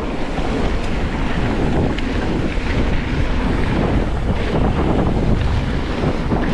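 Wind rushing over the microphone as a Transition Relay e-mountain bike rides fast down a dirt trail, mixed with a steady tyre noise and faint scattered rattles.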